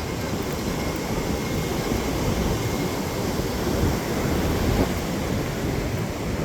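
Steady rushing noise of wind buffeting the microphone, with the wash of surf behind it.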